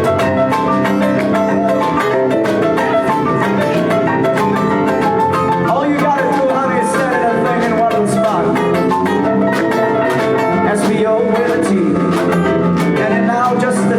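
Live band playing loud music, a full mix of drums and pitched instruments.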